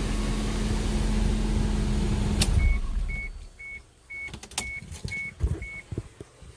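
Car engine running with a steady hum, then switched off with a click about two and a half seconds in. Seven short, even high beeps about half a second apart follow, with a few scattered clicks and knocks.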